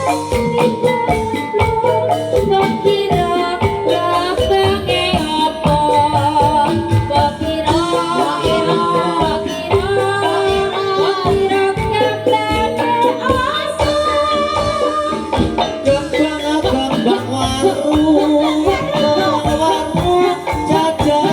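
Live jaranan dangdut music: a sung or played melody of held, bending notes over fast, steady drumming and a jingling rattle or tambourine.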